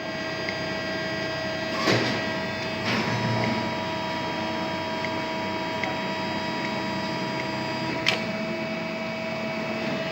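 Three-phase geared motor of a coil winding machine running steadily with an even whine, with a few sharp clicks, the loudest near the end.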